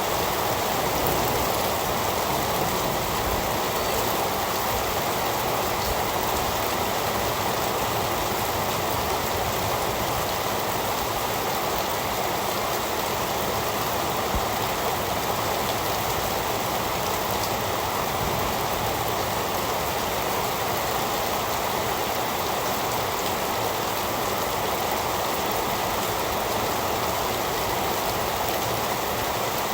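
Heavy rain falling steadily, an even hiss with occasional faint drop ticks and no thunder.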